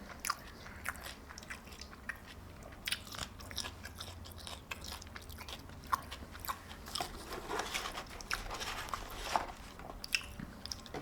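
Close-miked chewing of fast food, with irregular crunches and wet mouth sounds as a mouthful is bitten and chewed.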